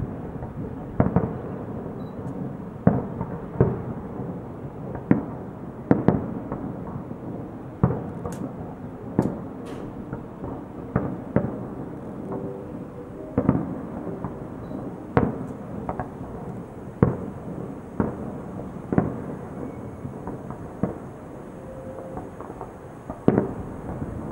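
Fireworks salute: shells bursting in a steady run of sharp bangs, about one a second, over continuous lower noise from the display.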